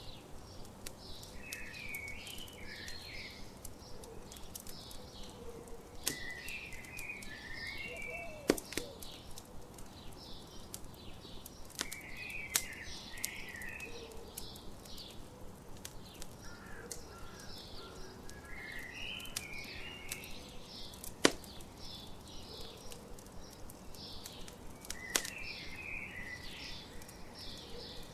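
Birds singing: a steady run of rapid high chirps, and a warbled song phrase repeated every five or six seconds. Under it a campfire crackles, with a few sharp pops standing out.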